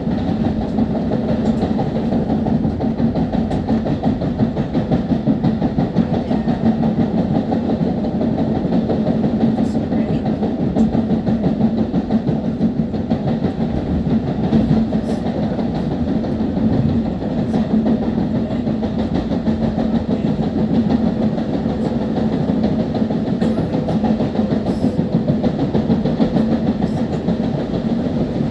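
Long Island Rail Road M3 electric multiple-unit train running at speed, heard from on board near the front: a steady rumble of wheels and running gear with a constant low hum and faint scattered clicks.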